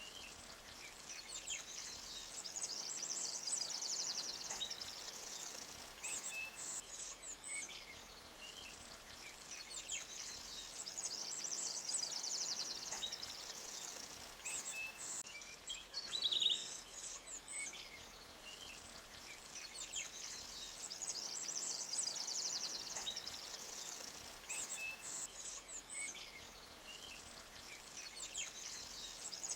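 Forest ambience: small birds chirping over a soft steady hiss, with a high shimmering trill that swells and fades about every nine seconds.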